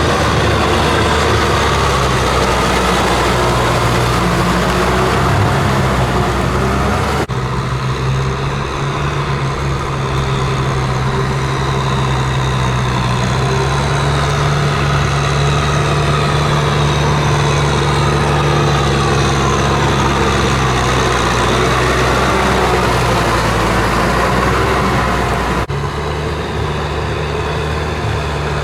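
Kubota M6040SU tractor's diesel engine running steadily with a low, even hum. The sound changes abruptly twice, about seven seconds in and near the end.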